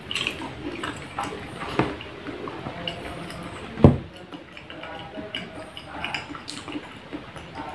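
Close-miked biting and wet chewing of a soft strawberry milk pudding: small moist clicks and squelches, with one low thump about four seconds in.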